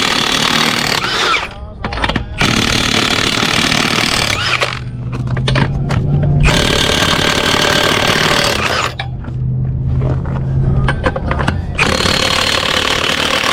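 Impact wrench hammering in four bursts of one to three seconds, with short pauses between, working the lug nuts of a truck wheel being pulled. A steady low hum sounds in the pauses.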